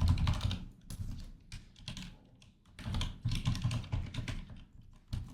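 Typing on a computer keyboard: runs of keystrokes with short pauses between them.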